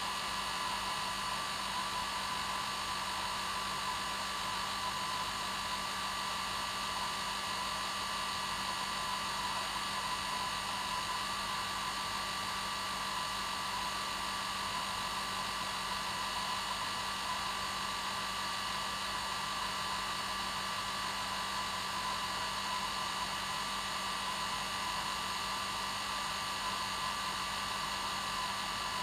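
Hair dryer running steadily: an even rushing blow with a constant motor whine, played as white noise to lull a baby to sleep.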